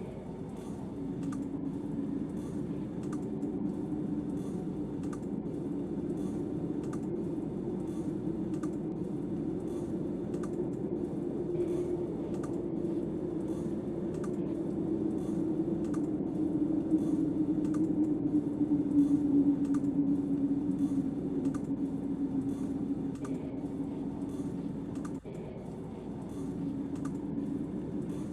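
Snowstorm wind blowing with a steady, wavering low moan that swells in the middle, with light regular clicks about twice a second.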